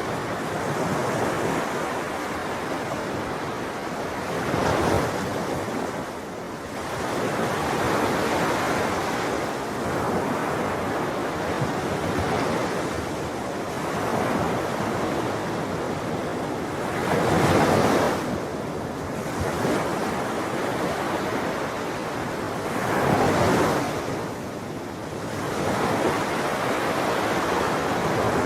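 Ocean waves breaking and washing on the shore, a continuous surf noise that swells with each wave, the biggest breaks at about 5, 18 and 23 seconds in.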